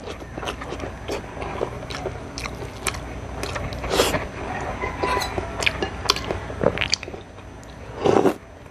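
Close-miked chewing and lip-smacking of a mouthful of fried eggplant, a run of irregular wet clicks with a louder smack about halfway. Near the end a louder burst comes as a spoonful goes into the mouth.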